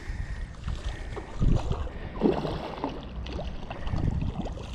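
Water sloshing and splashing irregularly around a kayak hull, with low wind rumble on the microphone.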